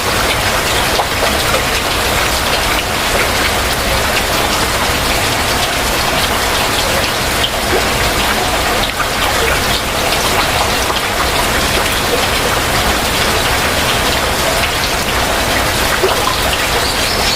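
Heavy rain falling steadily: a dense, even hiss with many close individual drops striking surfaces.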